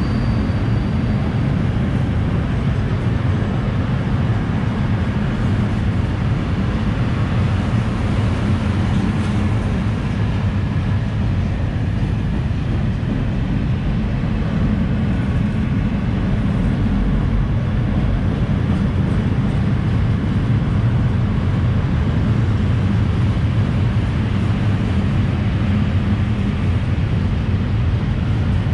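A freight train of open coal wagons rolling past close by: a steady, loud rumble of wheels on the rails. A faint high squeal fades out in the first second.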